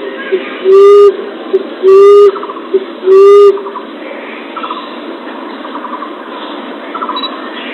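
Common emerald dove (punai tanah) calling: low, even coos repeated about once a second, with a short note between each, stopping about halfway through. Faint quick chirping trills follow over a steady hiss.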